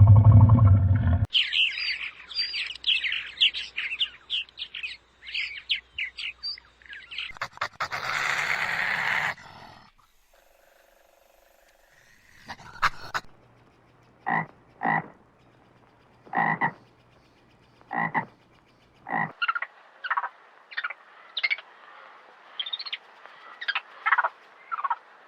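A run of different animal calls cut one after another. A low pitched call cuts off about a second in, then comes rapid high chirping and a short noisy stretch. After a brief quiet gap there is a series of short calls spaced about a second apart, then more high chirping.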